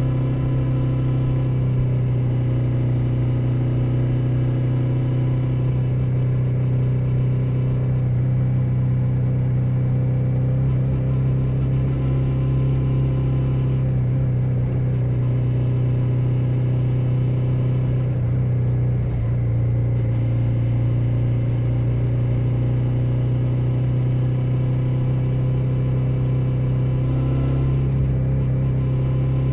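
2021 Suzuki SV 650's 645 cc V-twin engine running at a steady road speed, heard through a recorder mounted under the seat. The pitch and loudness hold steady, with a brief small dip about two-thirds of the way through.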